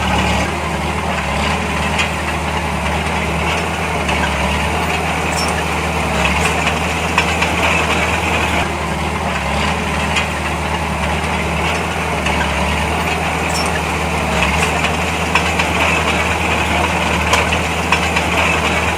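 Heavy diesel engine of earthmoving machinery running steadily, with a low, even drone and a few faint clicks and knocks over it.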